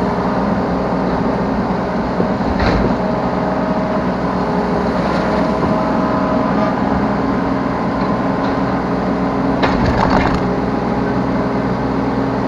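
Yanmar B3 Sigma 3-tonne mini excavator's diesel engine running steadily as it works, with a sharp knock about two and a half seconds in and a short cluster of cracking knocks near ten seconds in.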